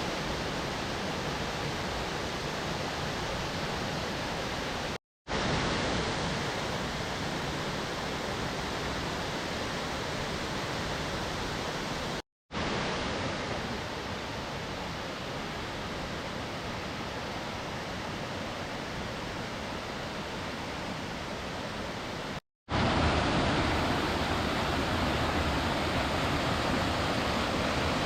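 Waterfall pouring heavily, a steady rush of water. It cuts out to silence for a moment three times, about five, twelve and twenty-two seconds in, and is louder after the last break.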